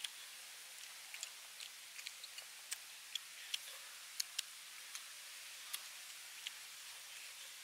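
Irregular sharp clicks and smacks of two people chewing and tearing meat from braised beef ribs, over a steady hiss.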